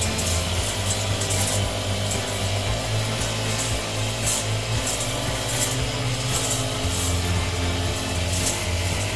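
Shrubs in a flower bed being cut back with a trimming tool: a steady low hum, with rasping cutting strokes about once a second.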